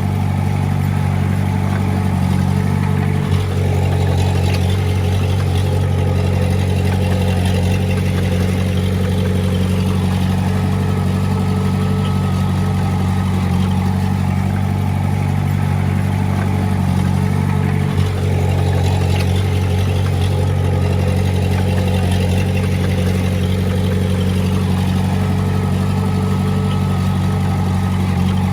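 Diesel engine of heavy earthmoving equipment running steadily under load, with two brief clicks, one a few seconds in and one about two-thirds through.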